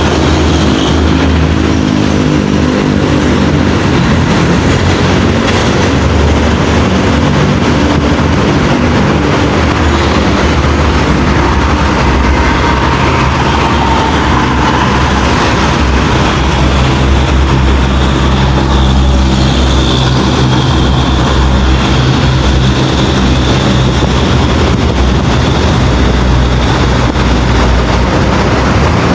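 Heavy diesel trucks driving by, their engines running at a low, shifting pitch over steady tyre and road noise.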